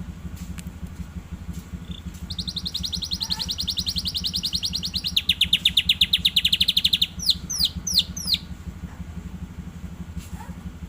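A young domestic canary practising its song: a fast high trill, then a lower, louder trill, ending in four quick falling whistles, over a steady low hum.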